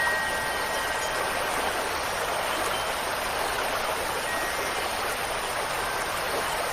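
Steady rushing water, like heavy rain or a stream, with faint wind chime tones ringing out in the first second or so and once more briefly near the middle.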